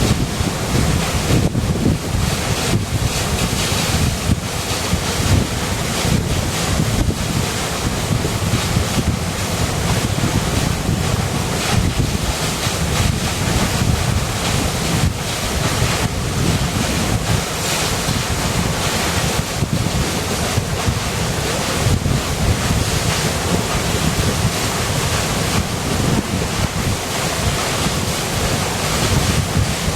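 River water rushing steadily, a constant rush of noise with a deep rumble underneath.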